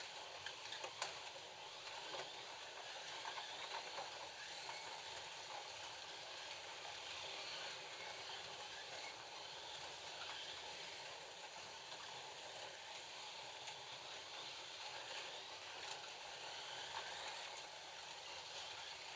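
FLY slot cars running laps on the track, their small electric motors making a steady hissing buzz, with a few sharp clicks about a second in.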